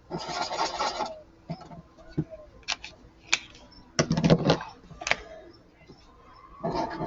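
Felt-tip marker scribbling over paper in bursts of scratchy strokes, with a few light taps or clicks in the pauses between.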